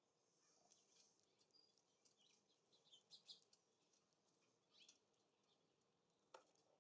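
Faint, scattered chirps and short calls of small songbirds at a feeder, a cluster of quick notes about halfway through, over a light background hiss. A single sharp tap near the end.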